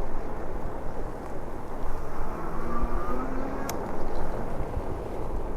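Wind and riding noise rushing over the microphone of a chest-mounted camera on a moving e-bike, a loud uneven low rumble. A faint brief tone is heard mid-way, and a single sharp click about two thirds through.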